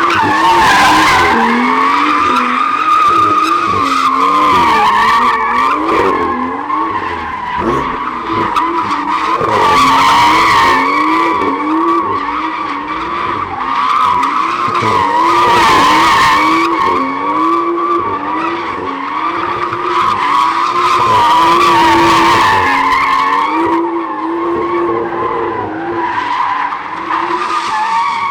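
A car drifting, its tyres squealing continuously in a long skid while the engine's revs rise and fall about once a second.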